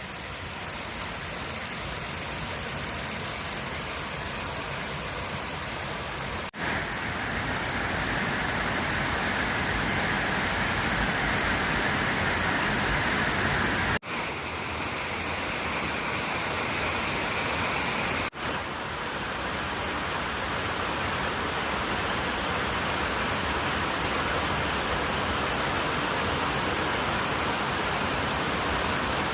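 Waterfall rushing in a steady wash of noise, with three brief dropouts where the tone shifts a little.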